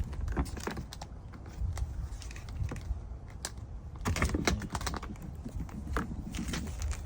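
Irregular light clicks and rattles of small parts and tools being handled, with a denser cluster about four seconds in, over a low steady background rumble.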